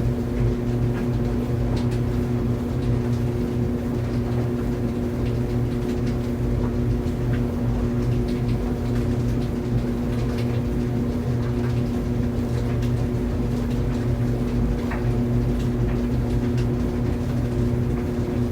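Clothes dryer running steadily: an even motor-and-drum hum with a few steady low tones and faint, scattered light ticks.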